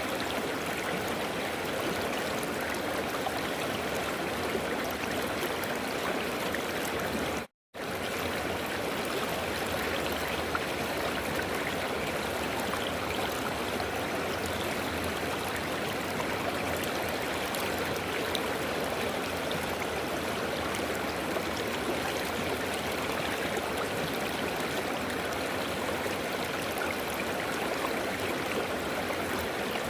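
River water flowing steadily, with a momentary cut to silence about seven and a half seconds in.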